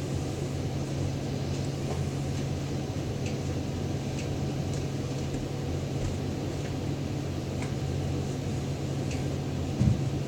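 Steady low mechanical hum of a running machine, even in level throughout, with faint scattered ticks and a single knock near the end.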